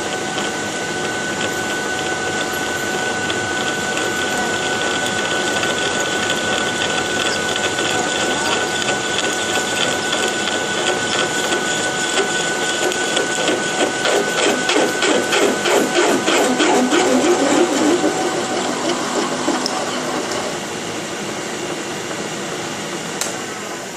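Milling machine running while it machines a steel plate: a steady whine under a rhythmic cutting chatter that grows louder in the middle and eases off a few seconds before the end.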